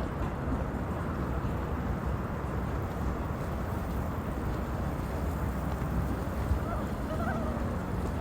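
Steady rumble of boat engines and water with wind noise on the microphone, and faint voices about seven seconds in.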